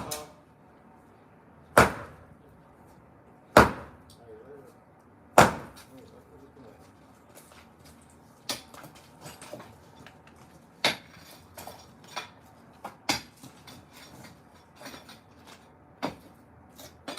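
Heavy hand-held hammer blows on concrete: four loud strikes about two seconds apart. After them come lighter, irregular knocks and clatter.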